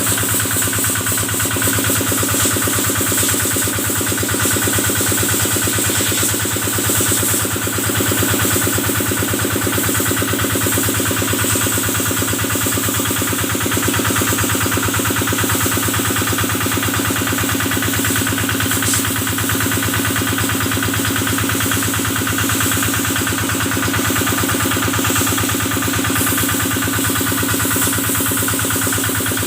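Kubota stationary diesel engine running steadily at a constant speed, driving the water pump used to spray the cattle.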